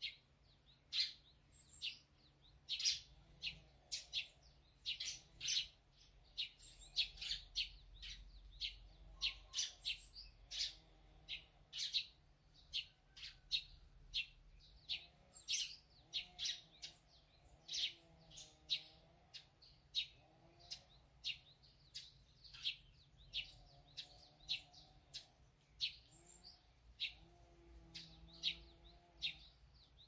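Small songbirds chirping: a steady stream of short, sharp, high chirps, about two a second.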